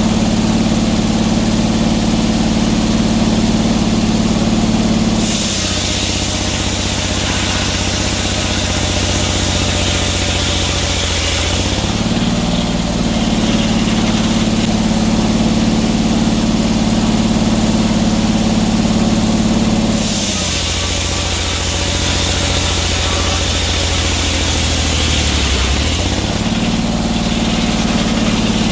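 Sawmill engine running steadily, twice dropping in pitch for about six seconds as it takes load while the saw cuts through oak with a loud high hiss, then picking back up between cuts.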